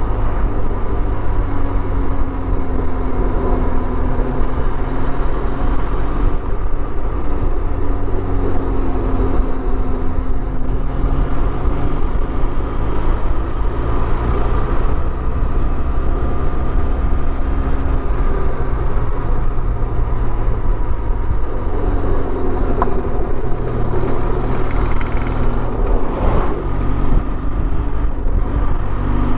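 Benelli TRK 502 parallel-twin motorcycle engine running under way, its pitch slowly rising and falling with the throttle, over a heavy low rumble of wind and road noise.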